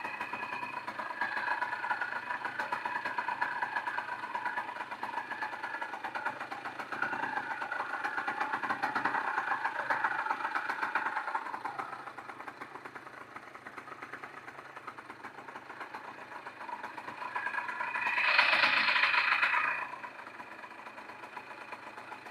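A 70cc Minarelli two-stroke motorized-bicycle engine running, its pitch wavering for the first dozen seconds, then quieter. About eighteen seconds in it swells loudly for about two seconds, then drops back to a low run.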